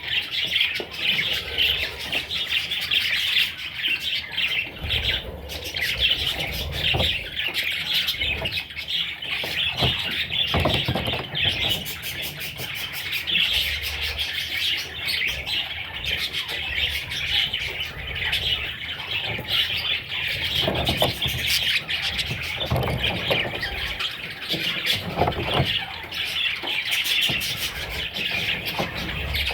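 Budgerigars chattering continuously in a dense stream of high chirps and squawks, with occasional low bumps.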